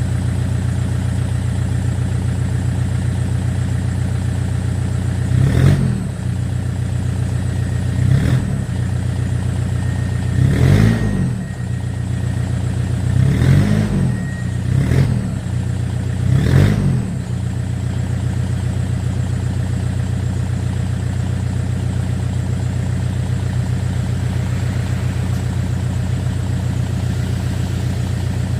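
Toyota Innova turbo-diesel through an aftermarket HKS exhaust, idling, then revved in five short blips, each rising and falling back to idle, before settling into a steady idle again.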